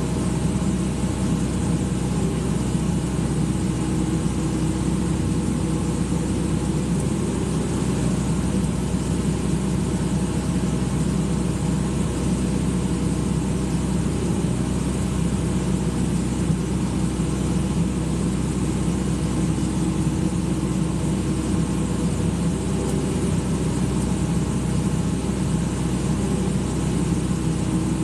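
Excavator's diesel engine running steadily at a constant speed, with no revving.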